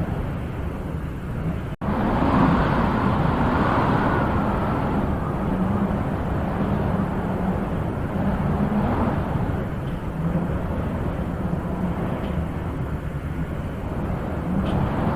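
Wind blowing in gusts, a steady rushing that swells and eases, strongest a couple of seconds in, with a brief cut-out just before that.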